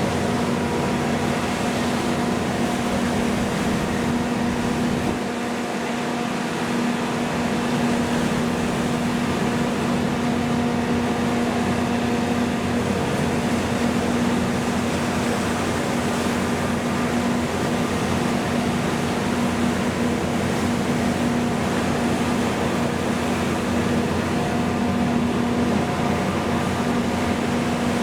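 Steady mechanical drone of boat engines running at a constant speed, with an unchanging hum under even noise.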